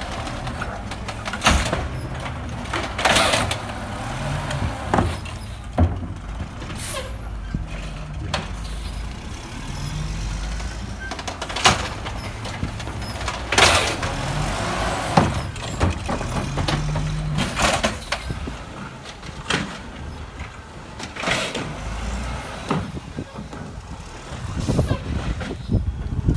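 Garbage truck engine running, its pitch stepping up and down, with repeated sharp air hisses and clanks.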